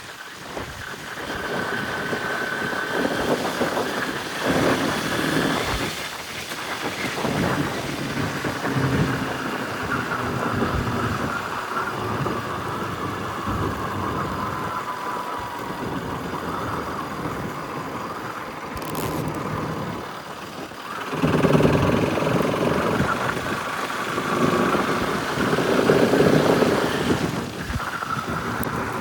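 Bajaj Pulsar RS200's single-cylinder engine running on a rough trail, its pitch rising and falling with the throttle, with wind rumble on the microphone. It gets louder about two-thirds of the way through.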